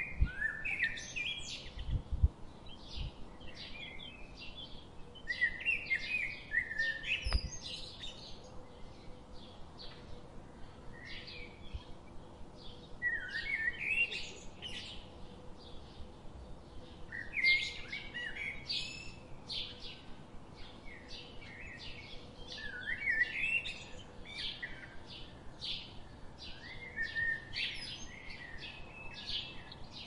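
Background birds chirping and calling in short bursts every few seconds, high-pitched with quick downward-sliding notes. A few dull knocks in the first several seconds, likely the crow's bill striking the wooden feeder board as it pecks at nuts.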